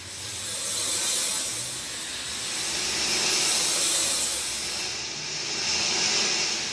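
Rain falling steadily, a dense hiss that swells and eases every couple of seconds.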